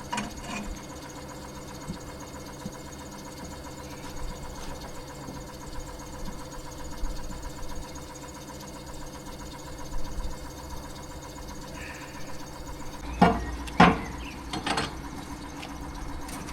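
An engine running steadily, with a few light knocks and then two loud sharp bangs close together near the end, in keeping with hammer blows on the steel tiller stock being freed from the rudder.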